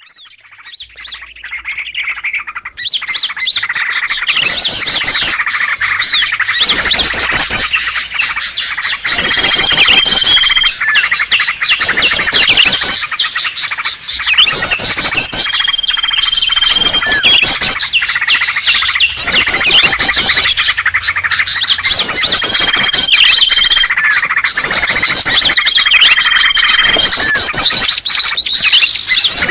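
Green leafbirds (cucak ijo) calling noisily: a dense, agitated chatter of chirps and rapid trills, with a held high whistle that recurs every few seconds. The calls fade in over the first few seconds and then stay loud.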